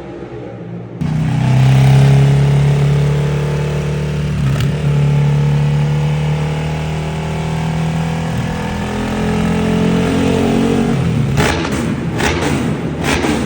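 Ducati superbike on a racing full exhaust in a tunnel: the engine note comes in sharply about a second in and holds steady and loud for about ten seconds, then breaks into a run of sharp crackles near the end.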